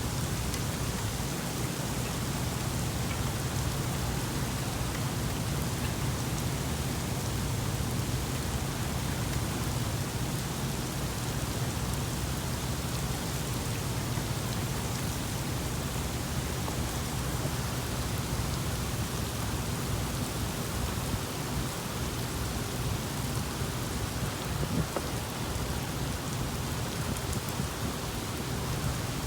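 Thunderstorm rain falling steadily and heavily, with a low steady rumble underneath. There is a single small tick about 25 seconds in.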